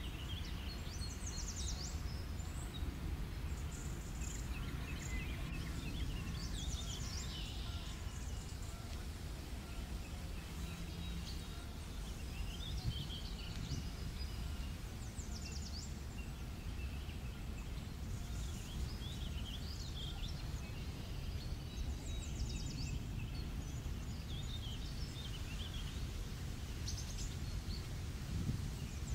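Small songbirds calling in short, scattered chirps and trills over a steady low rumble.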